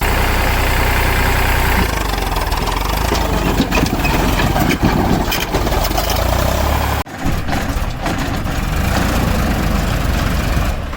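Sonalika tractor's diesel engine running steadily, cutting out for an instant about seven seconds in and then carrying on.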